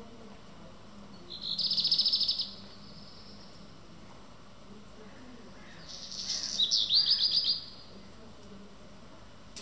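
Black redstart singing two short song phrases, about a second in and again about six seconds in, each a rapid run of high, rattling notes; the second phrase opens with a scratchy crackle.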